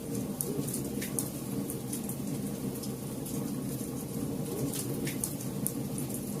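Campfire burning: a steady low rush of flames with irregular sharp crackles and pops from the burning wood, several a second.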